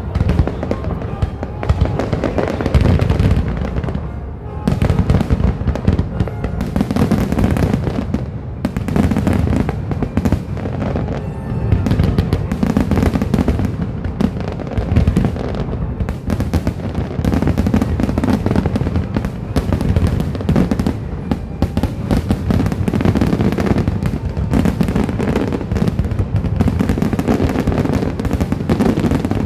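Fireworks finale: a dense, continuous barrage of shell bursts and deep booms, with no gaps between them.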